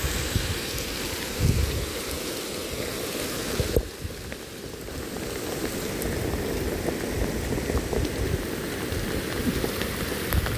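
Heavy rain falling steadily, with a single sharp knock about four seconds in.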